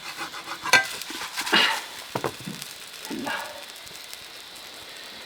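Batter roti frying in hot oil with a steady sizzle. A utensil knocks and scrapes in the pan a few times, loudest about a second in, and the sizzle alone remains after about three and a half seconds.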